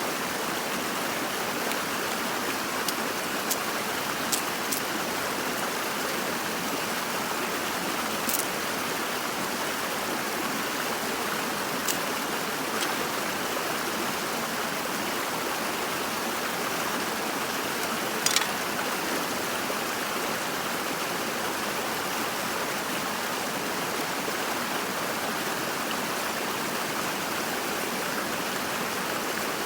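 Steady rush of flowing water, with a few brief sharp clicks scattered through it.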